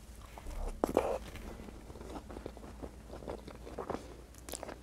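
Close-miked mouth sounds of chewing a bite of bread soaked in white bean and meat stew: soft wet chewing with clicks and lip smacks, loudest about a second in.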